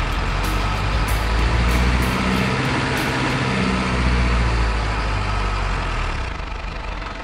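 Heavy diesel truck engine sound running with a low rumble, swelling louder about two seconds in and again about four seconds in, then easing off near the end.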